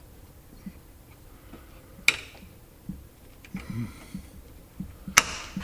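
Tools working on a stuck, plastic-coated taillight nut: a few scattered knocks and a brief scrape, with a sharp click about two seconds in and a louder one near the end.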